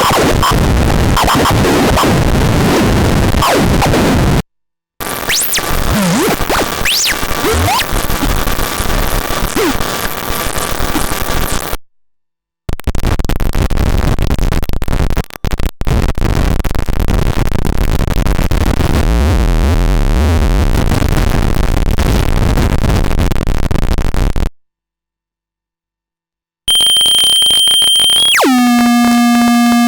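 Eurorack noise module built from square-wave oscillators producing harsh, dense, crackling noise textures in short demo passages separated by abrupt cuts to silence, with brief pitch glides in the second passage. Near the end a steady buzzy square-wave tone sounds, dropping sharply in pitch and then holding.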